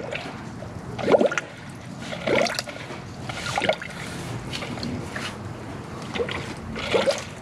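Coolant gurgling and bubbling in a spill-free funnel on a radiator filler neck as air is burped out of the cooling system by squeezing the upper radiator hose. About five separate gurgles come a second or so apart.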